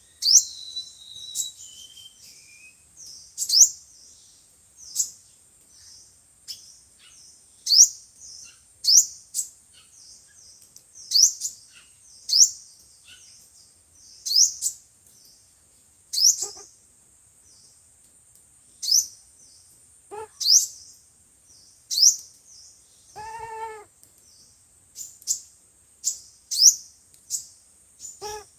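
Sunbird calling: sharp, very high chirps repeated about every second and a half over a steady high hiss, with one lower, fuller call about two-thirds of the way through.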